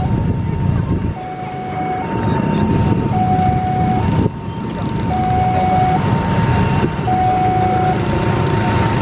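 Emergency vehicle's two-tone hi-lo siren, switching between a higher and a lower note about once a second, over a steady low rumble.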